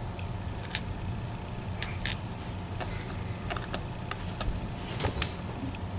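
Scattered small metallic clicks and taps, about seven over a few seconds, from an EVVA ICS dimple lock and lock picking tools being handled, over a steady low hum.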